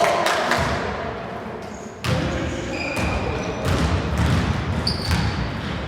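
Basketball game in a reverberant gym: a basketball bounces on the court with thuds every second or two, and short high squeaks come in between.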